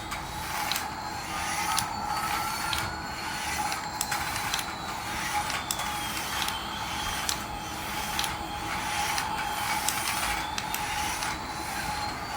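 A battery-powered toy's small electric motor and gears whirring steadily, with irregular sharp clicks and faint slowly rising and falling electronic tones.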